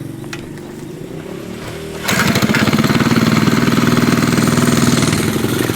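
Dirt bike engine running at low revs, then revved hard about two seconds in and held at high revs.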